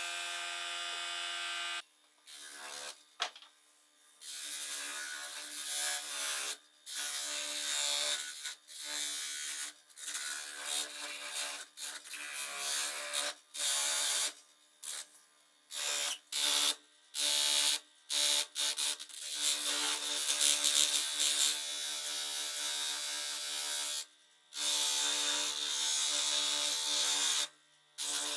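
A small high-speed electric power tool whining in many short stretches, starting and stopping abruptly, with a rough hiss over the whine while it works.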